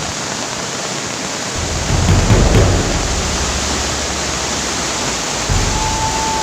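Swollen river after heavy rain, its fast, high water rushing in a steady noise. About a second and a half in, a deep rumble joins it, loudest around two seconds in. Near the end a faint steady tone begins.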